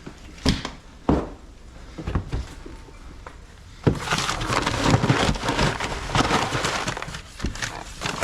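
Two sharp knocks from handling the chicken feed, then from about four seconds in a dense rattling rush of many small clicks as corn and wheat grain is poured out for the hens.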